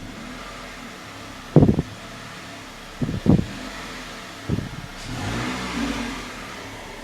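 A 2006 Toyota Corolla's 16-valve four-cylinder engine running, heard from inside the cabin, with three short sharp knocks in the first half and a brief rev about five seconds in. The owner is chasing an unexplained noise that he thinks may come from the intake or the exhaust.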